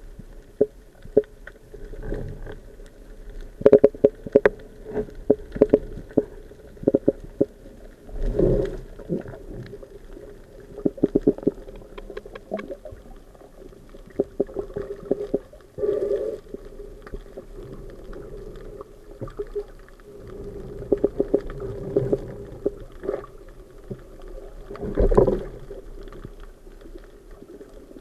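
Muffled underwater sound, as heard through a diving camera: irregular knocks and clicks with gurgling swells, over a steady low hum.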